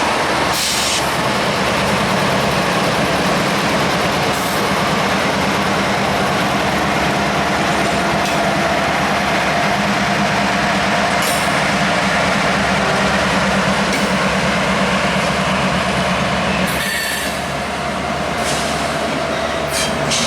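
Union Pacific freight train rolling past at close range: a loud, steady rumble and clatter of cars and wheels on the rails.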